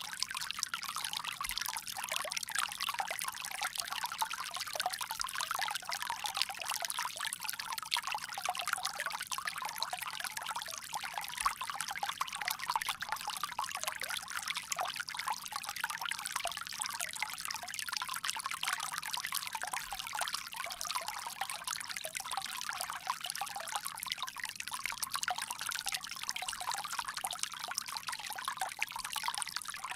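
Water pouring steadily from a bamboo spout, splashing and trickling with a dense, even hiss.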